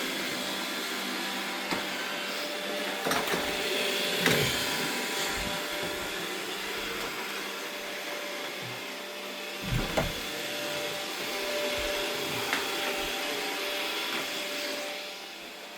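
Robot vacuum cleaners running: a steady motor and brush whir with a few knocks as they bump into things, a couple of seconds in and again about ten seconds in.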